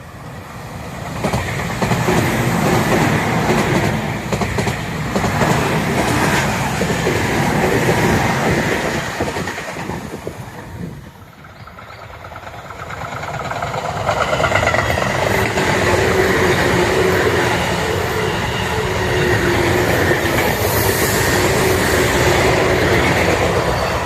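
Tobu Tojo Line electric trains running past, loud and steady, in two passes: the noise fades briefly about eleven seconds in and then builds again, with a steady whine in the second pass.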